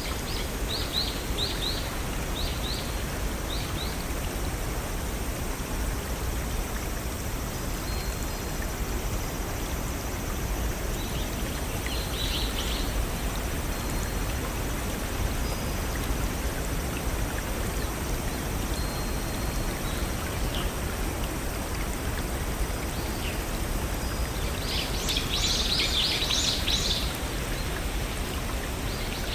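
Small forest waterfall and brook flowing in a steady rush, with birds chirping now and then over it and a busier flurry of chirps near the end.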